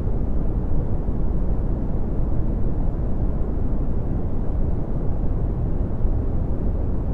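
Red (Brownian) noise: a steady, deep rumbling hiss with most of its energy in the low frequencies and little treble.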